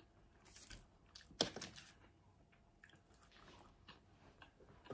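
A person chewing and biting food close to the microphone: a scattering of short, soft crunches and mouth clicks, the loudest about a second and a half in.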